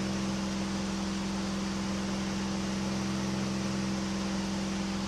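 KR2 light aircraft's engine and propeller droning steadily at cruise, heard inside the small cockpit, with a constant hiss of rushing air.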